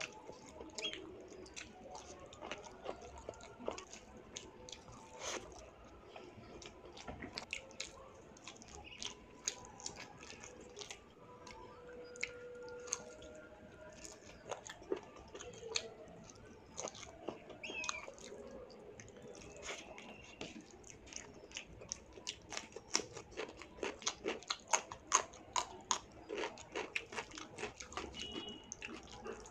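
Close-miked wet chewing and lip smacking of someone eating rice with chicken liver curry by hand, with many small mouth clicks. Now and then fingers squish the rice through the gravy on the plate.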